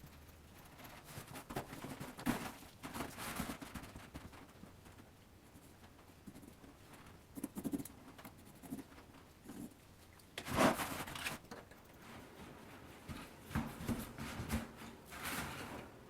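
Intermittent scrapes, taps and handling noises of hand work on metal or fibreglass parts, loudest about ten and a half seconds in.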